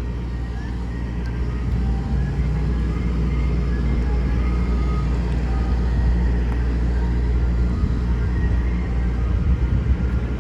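Motor vehicle engine running close by: a steady low rumble.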